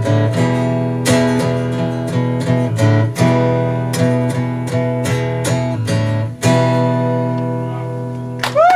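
Acoustic guitar strumming the closing chords of a song, each chord left to ring. A short rising sound comes just before the end.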